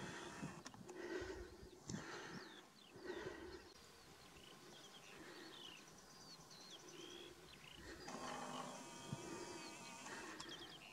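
Faint, short, low animal calls repeating every second or two, with small birds chirping over them.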